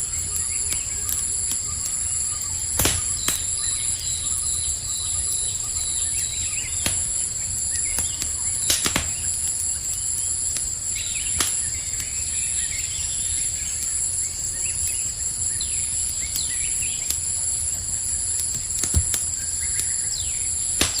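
Campfire crackling, with sharp pops about three seconds in, about nine seconds in and again near the end, over a low steady rumble. A steady high-pitched insect trill, typical of crickets, runs under it, with scattered faint bird chirps.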